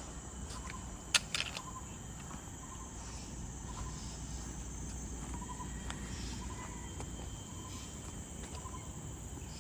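Steady high-pitched insect chorus of forest crickets, with a short call around the same pitch repeating about every second. A single sharp click sounds just over a second in.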